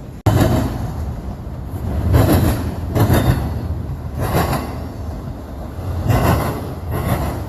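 CSX freight train rolling past with a steady low rumble and repeated louder clacks of wheels over rail joints, roughly once a second. The sound cuts out very briefly about a quarter second in.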